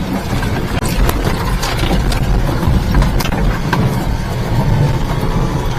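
Kei mini truck's small three-cylinder engine running under load as it drives through deep snow, with scattered knocks and rattles.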